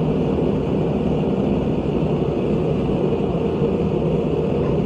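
Gas forge burner running steadily, a constant low rush of burning gas with the air intake open fully.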